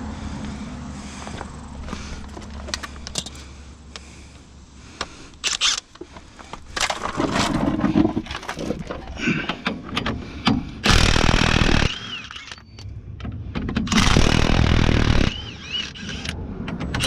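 Hand tools working on suspension fasteners under a pickup truck: scattered metal clicks and knocks, with two longer rasping bursts of tool noise, about eleven and fourteen seconds in.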